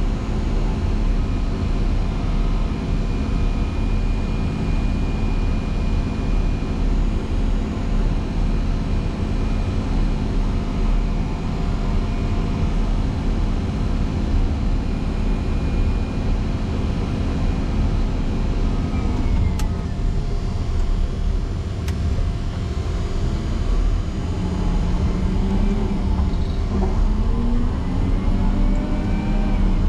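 Motor grader's diesel engine running steadily under load while plowing snow; about two-thirds of the way through its note drops, then climbs again in a few rising glides as the revs pick back up. Two short clicks are heard in the middle.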